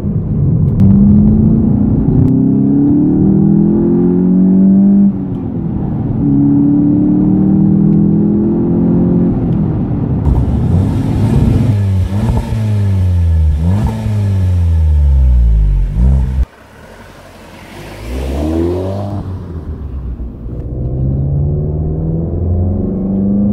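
2018 Volkswagen Golf GTI's 2.0-litre turbocharged four-cylinder engine accelerating hard, revs climbing, with a break about five seconds in at a gear change, then climbing again. From about ten seconds in the revs fall in several steps as the car slows, the sound drops away suddenly about sixteen seconds in, and the engine pulls up through the revs again near the end.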